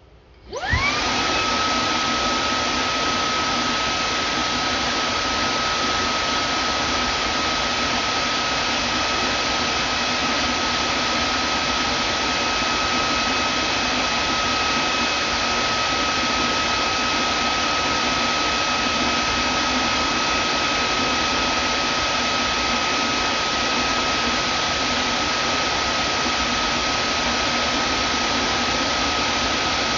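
Vacuum cleaner switched on: the motor spins up with a rising whine in the first second, then runs steadily with a high whine over a loud rushing hiss.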